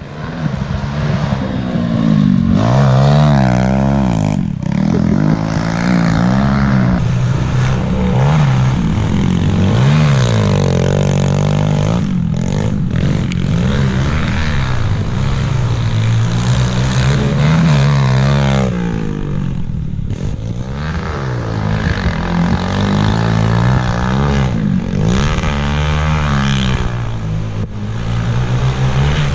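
Small four-stroke pit bike engines riding laps on a dirt track, revving up and dropping back over and over, their pitch rising and falling every second or two.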